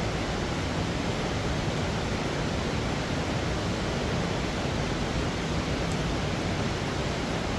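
Steady rushing of flowing river water, an even noise that holds at one level without a break.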